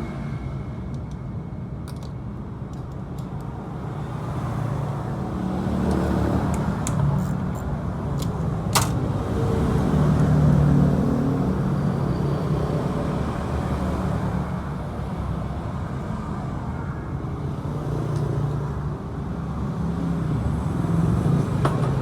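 A motorcycle engine running, its pitch rising and falling as it is revved, loudest around ten seconds in, with one sharp click about nine seconds in.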